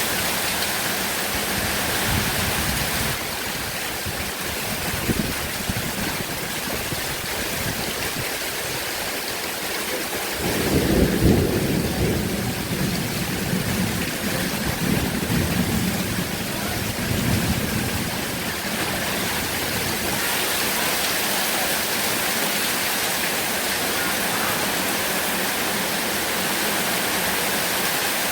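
Heavy rain falling steadily, with a low rumble of thunder that swells about ten seconds in and rolls on for several seconds before fading back into the rain.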